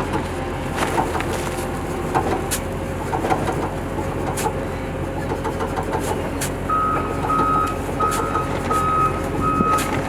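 Heavy work vehicle running with a steady low engine drone and scattered knocks and clanks. About seven seconds in, its backup alarm starts beeping, roughly two beeps a second.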